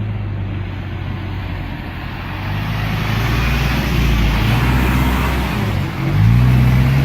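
A vehicle engine running, growing louder from about three seconds in, then revving up to a higher pitch about six seconds in.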